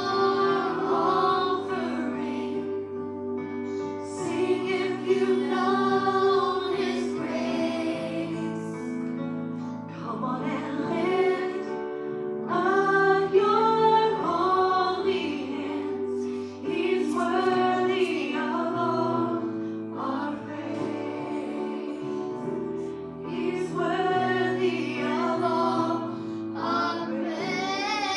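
Group of voices singing a hymn over sustained instrumental accompaniment, with long held chords underneath the melody.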